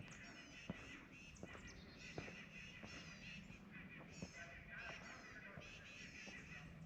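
Faint, distant honking of geese, many short calls repeating, with soft footsteps on the trail at a walking pace.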